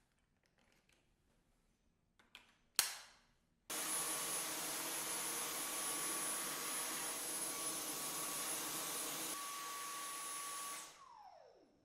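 Dyson Cyclone V10 cordless stick vacuum: a couple of sharp clicks, then the motor starts suddenly and runs steadily with a high whine. It drops a little in level, is switched off near the end, and spins down in a falling whine.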